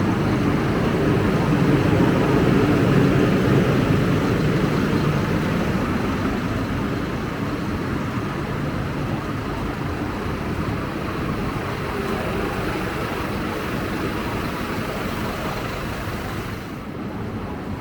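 Scania K250UB single-decker bus under way: steady engine and road noise, loudest a few seconds in and easing off gradually.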